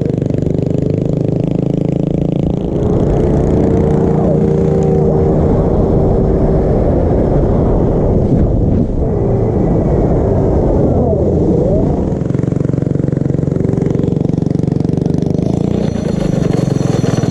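Small mini bike and pit bike engines running while riding, the sound getting louder about three seconds in and easing off again around twelve seconds.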